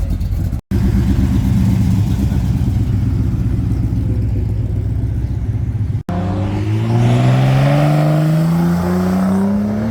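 A car engine running with a steady low rumble. After a sudden cut about six seconds in, a car accelerates away, its engine note rising steadily in pitch.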